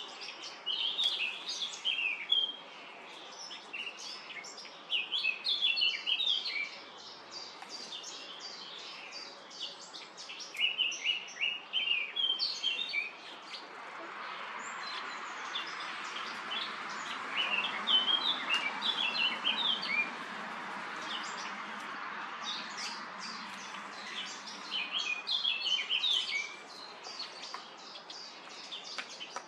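European starlings chirping and chattering in quick bursts of short high calls. A steady rushing noise swells behind them in the middle.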